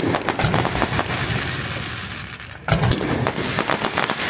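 Aerial fireworks exploding: a sharp bang and scattered crackling at the start that die away, then a loud, deep boom a little over two and a half seconds in, followed by rapid crackling pops.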